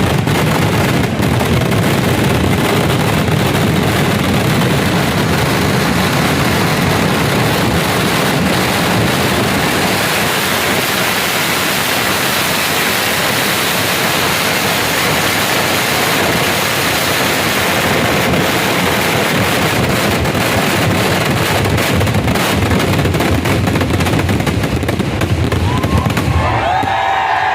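Festival fireworks barrage: a dense, unbroken volley of firecracker explosions packed so close that they merge into one continuous crackle. Near the end whistle-like rising tones join in.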